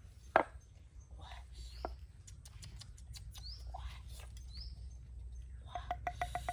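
Wild birds calling with short rising chirps repeated about once a second. A single sharp knock comes about half a second in, and a rapid clicking trill of about eight notes near the end.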